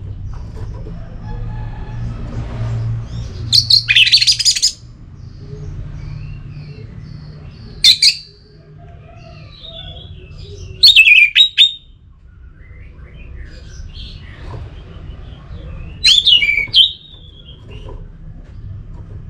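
Orange-headed thrush singing: four loud, sharp bursts of song about every four seconds, with softer whistled phrases between them.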